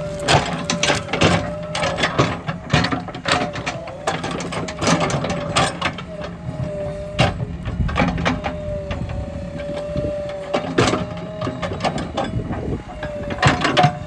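Backhoe loader working: engine running with a steady whine and many irregular clanks and knocks.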